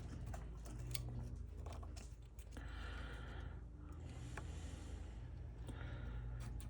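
Light clicks and scraping from small tools working on an old metal fuel tank sending unit, over a steady low hum.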